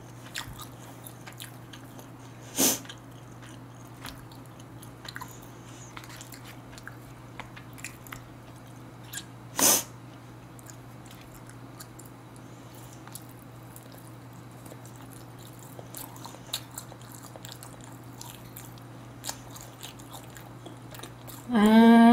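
Close-miked chewing of smoked duck, with many small wet mouth clicks and two louder sharp clicks, about three seconds in and about ten seconds in, over a steady low hum.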